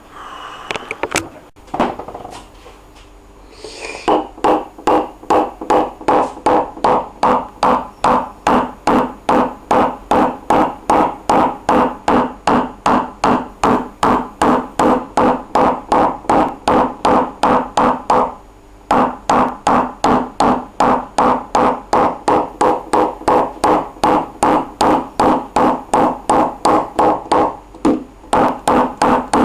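Steady hammer tapping on a car's sheet-metal trunk lid, about three light taps a second with a ringing tone, typical of knocking down high spots in paintless dent repair. The tapping pauses briefly twice.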